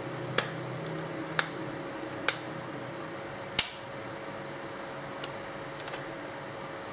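Sharp, short clicks of small hard parts being handled, six of them at uneven gaps of about a second, over a steady low hum.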